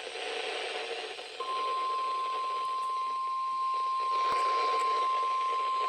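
NOAA Weather Radio receiver hissing with static, then about a second and a half in its steady, single-pitch warning alarm tone comes on and holds. This is the tone that signals a warning broadcast is about to follow, here a severe thunderstorm warning.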